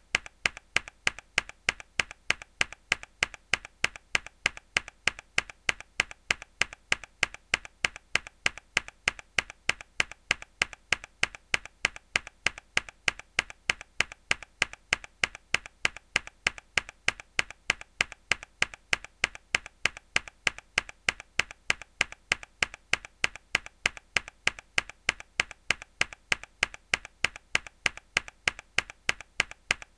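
A single mechanical keyboard key pressed hard, looped into an even run of sharp clicks, about two or three a second.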